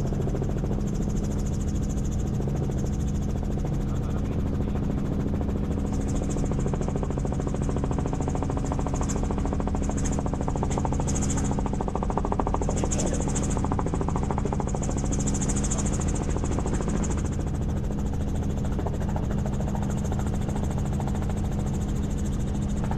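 Steady drone of a helicopter in flight, heard from inside the cabin: an even hum of rotor and engine at constant pitch, with some intermittent high hiss in the middle.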